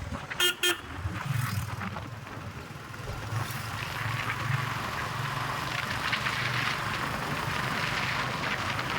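Motorcycle running at road speed, its engine a steady low hum under wind and road rush that grows louder after a few seconds. Two short horn beeps come near the start.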